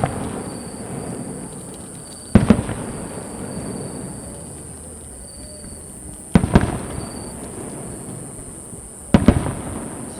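Aerial firework shells bursting overhead: three loud booms about three to four seconds apart, each trailing off before the next.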